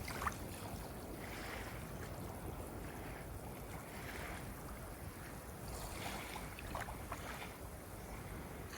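Ocean waves washing in with a steady low rumble and slow swells, and small splashes now and then.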